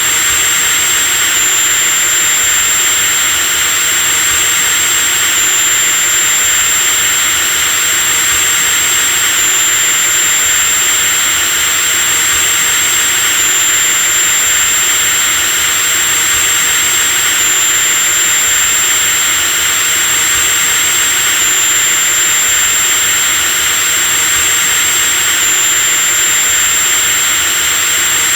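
Electric drill motor running continuously at one steady speed: a high, thin whine over an even rushing hiss.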